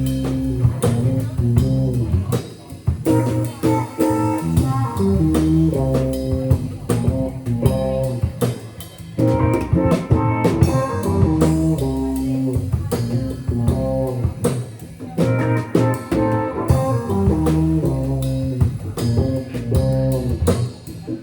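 Live band playing a funk groove: drum kit keeping a steady beat under a moving bass guitar line and guitar.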